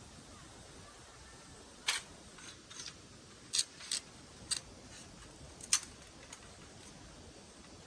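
A series of about eight short, sharp clicks at an uneven pace, some in quick pairs, over a faint steady background.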